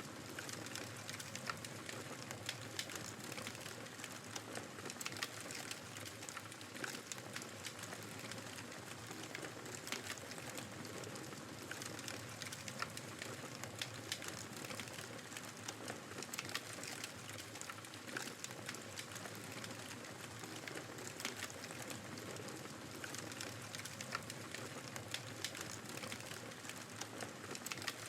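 A wood fire crackling, with irregular small pops and snaps, over the steady rushing noise of snowstorm wind.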